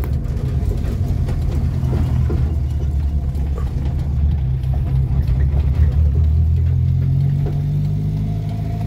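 Renault 4's small four-cylinder engine heard from inside the cabin, a steady low drone as the car drives slowly, rising slightly in pitch near the end.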